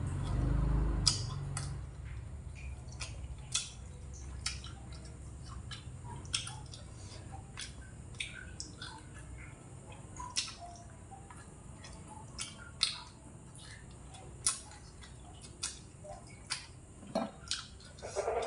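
Close-up eating mouth sounds: irregular wet clicks and lip smacks from gnawing and chewing meat off a fried pork rib, several a second at times, with pauses between.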